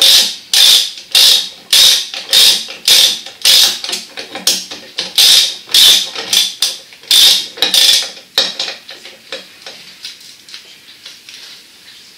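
A mechanism making short, loud rasping strokes in a steady rhythm, about two a second, that weaken and thin out after about eight seconds.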